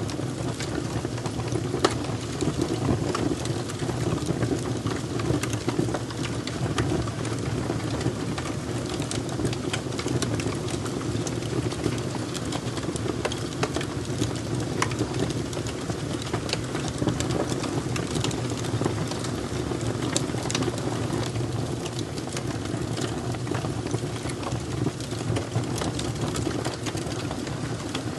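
Wood fire crackling: a steady low roar of flames with frequent sharp, irregular pops and snaps.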